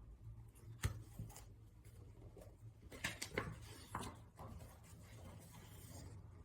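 Quiet room tone with a steady low hum, broken by a few faint clicks and rustles, the loudest a sharp click about a second in and a small cluster around three seconds.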